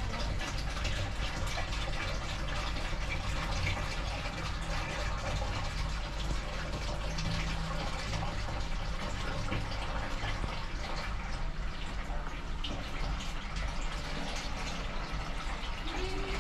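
Old Ruston diesel engine running a stone flour mill (atta chakki): a steady low engine drone under a continuous hiss of grain being ground.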